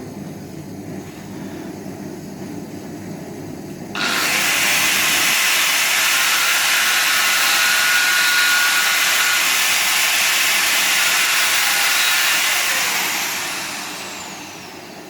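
A handheld power tool switches on about four seconds in and runs steadily with a loud hiss for about eight seconds, then winds down with a falling whine as it is switched off.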